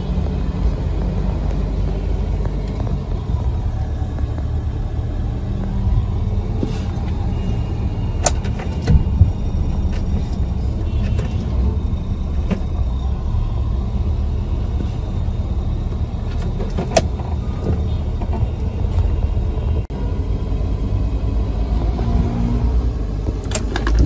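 2006 Nissan Sunny's petrol engine idling too fast, heard from inside the cabin as a steady low rumble, with a few sharp clicks. The fast idle is stuck around 1500–2000 rpm, a fault traced to a bad throttle-body wiring connector.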